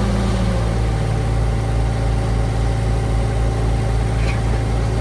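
Diesel engine of excavating machinery running steadily, its pitch stepping down slightly just under a second in.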